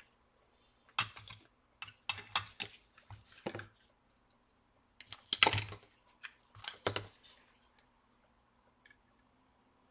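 Small metal tools and laptop parts being handled, with irregular clicks, taps and light clinks in several short clusters, the loudest about halfway through.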